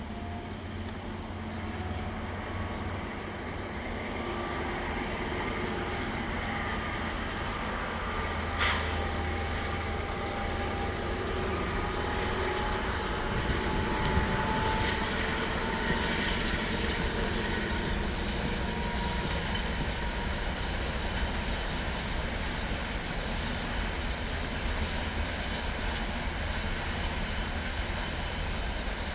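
KiwiRail diesel locomotive hauling a long container freight train past, a steady rumble of engine and rolling wagons that grows gradually louder. A few short, sharp squeaks come about a third and halfway through.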